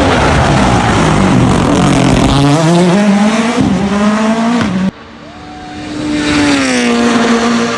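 Rally car engine accelerating hard, its note climbing through the revs. Partway through, the sound cuts abruptly to another rally car's engine growing louder as it approaches, its pitch dropping as it passes by.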